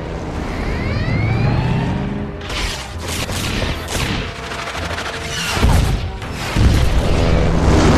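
Action-film sound effects of missiles launching and streaking in, with several booms and bursts of firing, over a music score. The opening has rising whooshes; the heaviest booms come in the second half.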